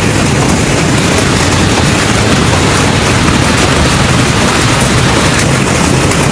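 Heavy thunderstorm downpour, a loud steady roar of rain or hail.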